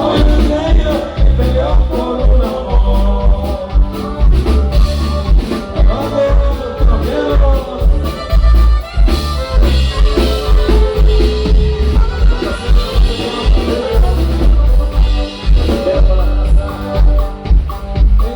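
Latin American band music with a drum kit, a steady low beat and singing.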